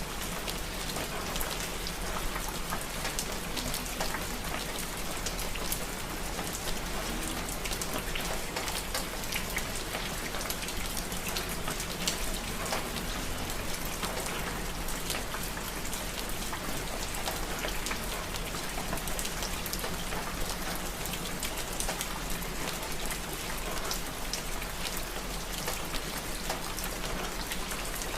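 Steady rain falling: an even hiss with many separate drop hits all through.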